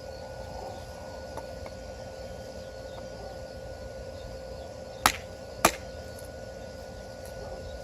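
Two sharp knocks about half a second apart, a little past the middle, over a steady background with a constant high tone.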